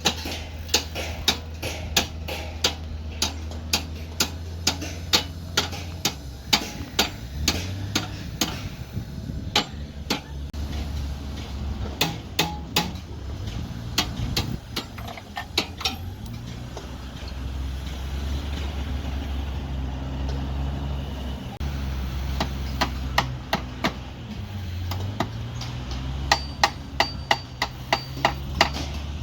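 Repeated sharp hammer strikes, about two a second, thinning out in the middle and coming faster near the end, over a steady low motor hum.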